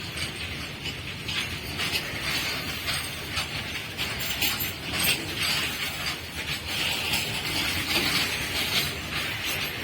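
A passing train on the track, wheels rumbling and clattering over the rails in a steady run of noise.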